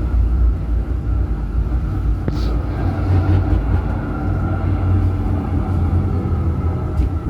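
Electric city tram running along its line, heard from inside the tram: a steady low rumble of wheels on rails with a constant hum from the drive, and a single sharp click about two seconds in.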